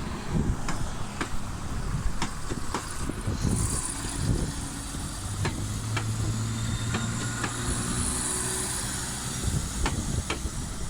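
A train on the railway: a low steady hum through the middle, with scattered sharp clicks and a high hiss.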